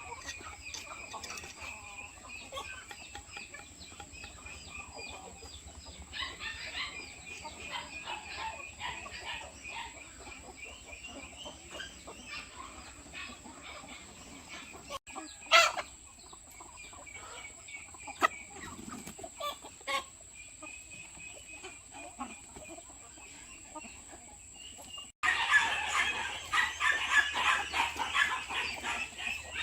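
A flock of chickens clucking and calling continuously, with a rooster crowing among them. There is a sharp click about halfway through, and the flock is louder and busier for the last few seconds.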